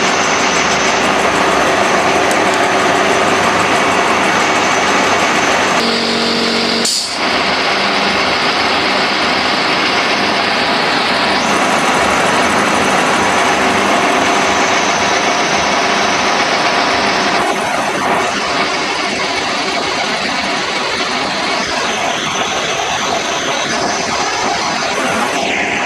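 Shop machinery running with a steady, loud mechanical noise, its sound changing abruptly several times, with a brief pitched hum about six seconds in.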